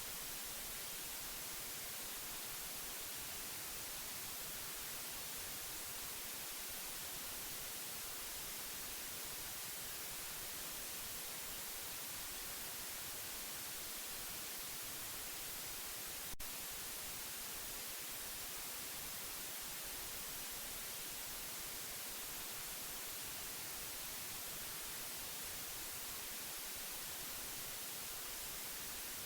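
Steady white noise: an even, unchanging hiss that is strongest in the high frequencies. A single brief click about halfway through.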